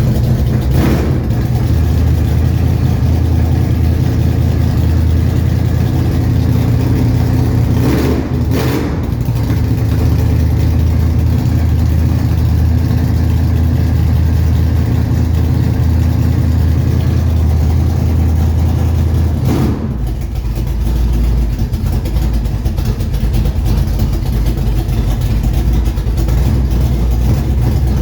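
Bored-over 454 big-block V8 idling steadily after a cold start, with a couple of brief sharp sounds, and its low idle note drops lower about 20 seconds in.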